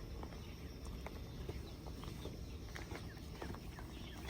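Scattered light taps and clicks, a few a second, over a steady low rumble.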